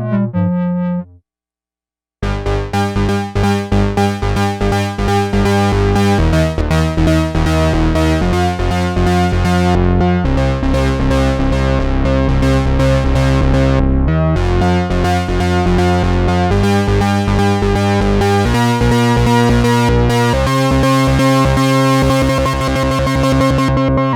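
Sequential Prophet-10 rev 4 analog polyphonic synthesizer playing a preset dry, with no effects. One patch dies away about a second in; after a short silence a new patch starts with plucky repeated chord stabs, then moves on to held chords that change every couple of seconds, with a fast low pulsing under them near the end.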